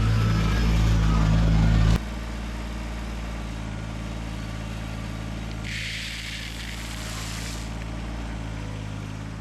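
Kubota compact tractor's diesel engine running steadily. About two seconds in it drops abruptly to a quieter level, and there is a brief hiss from about six to seven and a half seconds in.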